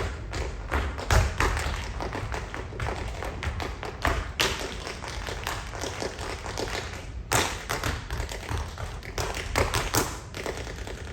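Tap dancing: tap shoes striking a stage floor in rapid, uneven runs of taps, with a few heavier stomps standing out.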